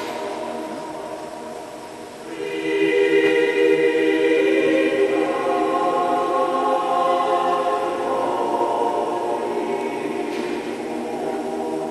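Choir singing long held chords, swelling louder about two seconds in and shifting to new chords as it goes.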